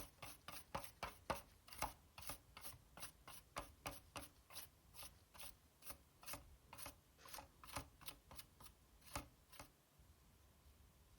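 A brush scrubbing a PlayStation 4 Slim circuit board in quick back-and-forth strokes, about two and a half a second. The strokes stop about ten seconds in.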